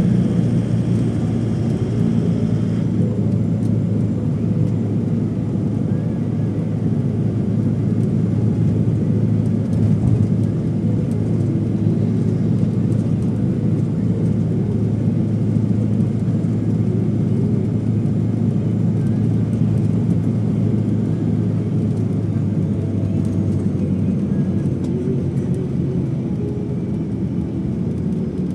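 Steady low drone of an airliner's engines, heard from inside the passenger cabin.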